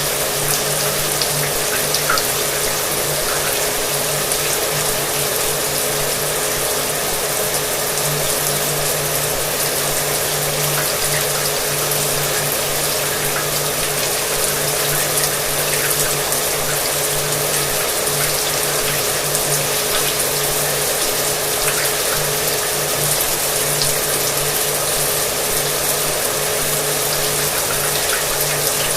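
Shower water running with a hair dryer blowing in the background: a steady rush of water over a constant motor hum.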